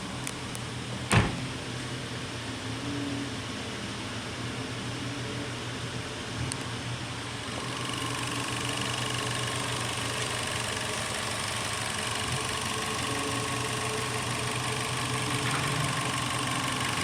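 Holden Barina car engine idling steadily, with one sharp knock about a second in; from about eight seconds in it runs slightly louder, with a steadier whine.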